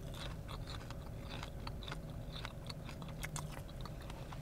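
Chewing a crunchy Burger King French toast stick: scattered small crunches and mouth clicks over a low steady hum.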